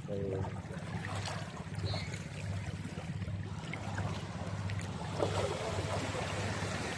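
Boat engine running with a steady low hum that swells and fades evenly, over a haze of water and wind.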